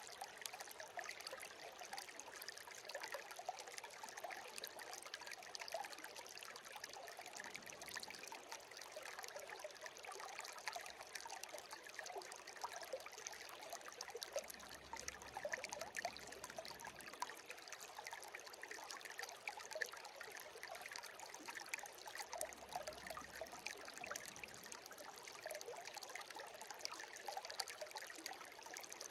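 Shallow stream babbling and trickling steadily, a dense patter of small splashes.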